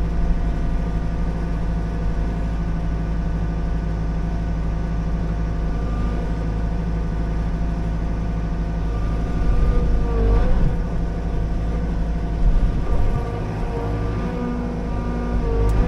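Liugong 9051F mini excavator's diesel engine running steadily while working the hydraulics, swelling louder twice past the middle as it takes on load.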